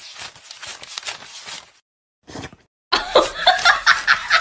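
A person laughing, a breathy, rhythmic laugh of about four pulses a second, that cuts off a little under two seconds in. After a short silence, louder high-pitched calls or voices begin near the end.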